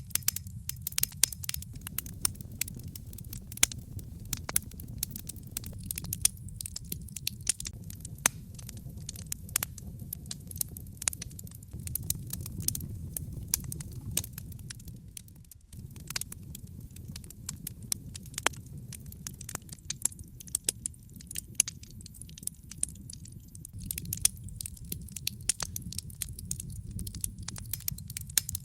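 Wood fire in a fireplace, logs crackling with irregular sharp pops over a steady low rumble of the flames. The sound dips briefly about halfway through.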